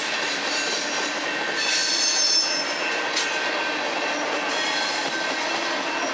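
Freight train's covered hoppers and tank cars rolling past close by, with the steady noise of steel wheels on rail. High-pitched wheel squeal rises over it about two seconds in.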